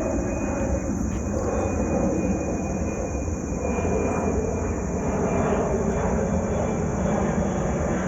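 Airplane passing overhead: a steady engine rumble that slowly grows louder.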